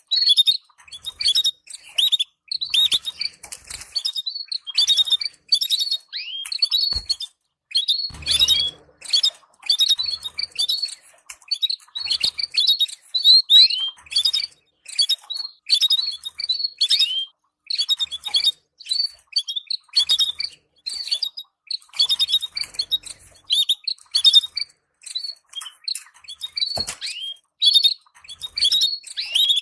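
Canaries twittering: dense clusters of short, high chirps, many sweeping downward, with brief pauses between clusters.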